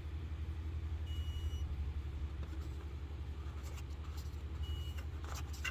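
Car engine idling: a steady low rumble with a fast, even pulse. Two short, faint high beeps sound, one about a second in and one near the end.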